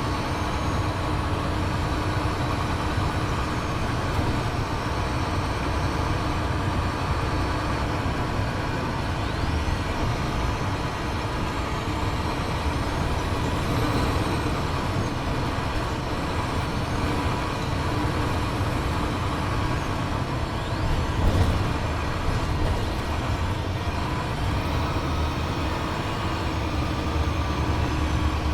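Cummins ISL diesel engine of a 2007 Gillig Advantage transit bus, running steadily, with a brief louder moment about twenty-one seconds in.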